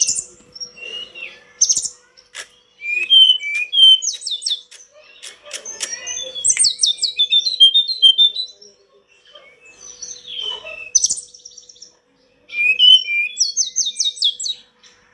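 Tledekan gunung (Sunda robin) singing: loud, varied phrases of quick high whistles and rapid trills, separated by short pauses.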